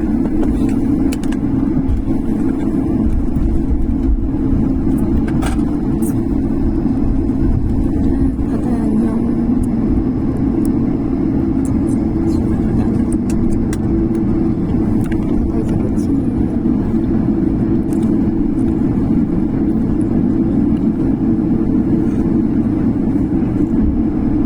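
Steady drone of an airliner's jet engines and cabin air heard from inside the cabin, even in level throughout, with a few faint ticks.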